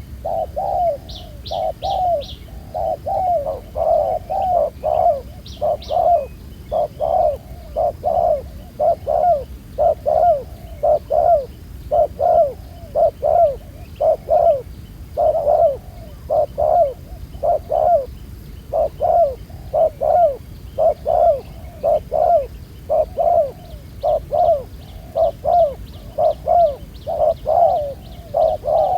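Spotted doves cooing over and over, one coo phrase after another without a break. A small bird gives a few quick high chirps in the first few seconds.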